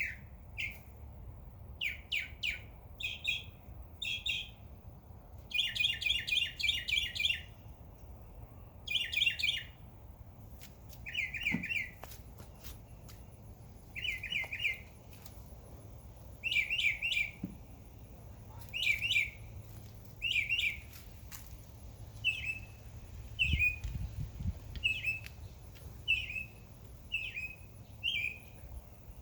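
Small songbirds chirping in short bursts of quick repeated notes, a burst every second or two, some bursts running into rapid strings of chirps.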